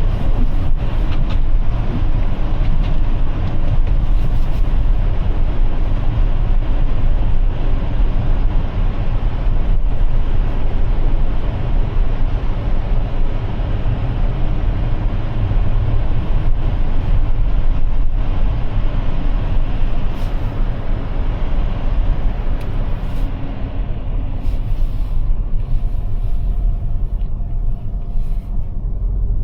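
Cabin noise of a Toyota RAV4 Prime driving on a snowy road on Blizzak winter tires: a steady low rumble with tyre and wind hiss, the hiss easing off about three-quarters of the way through.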